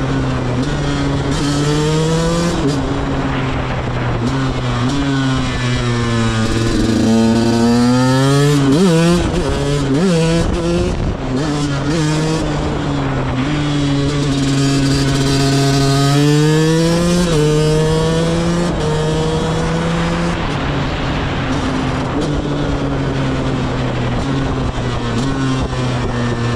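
2010 KTM 125 EXC's single-cylinder two-stroke engine being ridden. Its revs climb and drop sharply at gear changes several times, with a quick run of blips about ten seconds in and a long climb ending in a shift near two-thirds through. After that it holds a steadier cruise.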